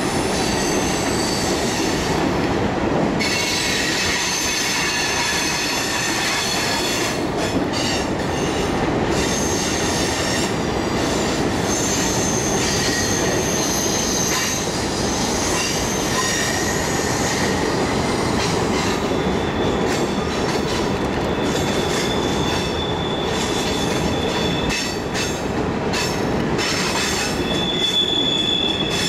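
Freight train's boxcars and tank cars rolling past, with steady wheel-on-rail rumble and high wheel squeal that comes and goes as the cars round the curve.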